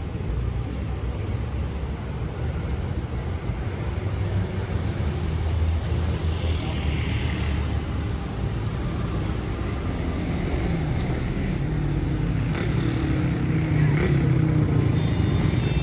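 City street traffic: cars running along an avenue with a steady low rumble, and one vehicle passing close about seven seconds in.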